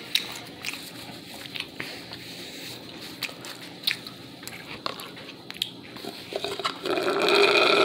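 A person chewing and biting food close to the microphone, with many sharp wet mouth clicks. Near the end a louder, steady sound with a pitch lasts about a second.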